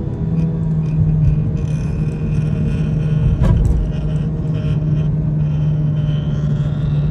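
A rattle from a car: irregular light clicks and knocks over a steady low drone, with one sharper knock about three and a half seconds in.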